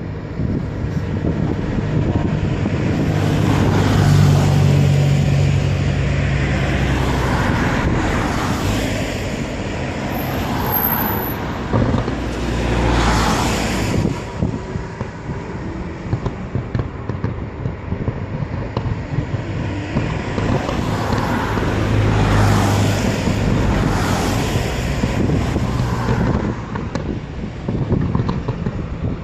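Fireworks booming and crackling in rolling swells, with the loudest rumbles about four seconds in, around thirteen seconds and again around twenty-two seconds. Wind rumbles on the microphone throughout.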